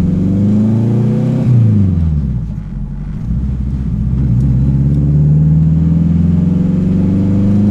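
Turbocharged Honda K24 four-cylinder in a Civic under hard acceleration, heard from inside the cabin. The engine note climbs, drops at a gear change about a second and a half in, then climbs steadily again through the next gear. It is really loud.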